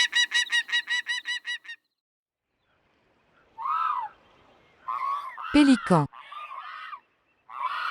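Falcon calling in a rapid, even series of sharp, pitched notes, about eight a second, that stops about two seconds in. After a short silence, a different bird's harsher calls begin.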